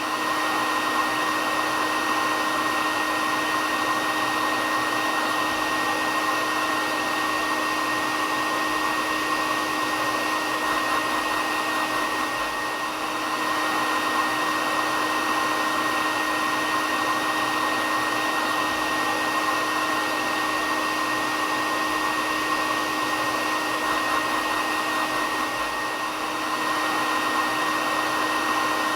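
Hair dryer running steadily: an even rush of air with a steady high whine and a lower hum, dipping slightly in level twice.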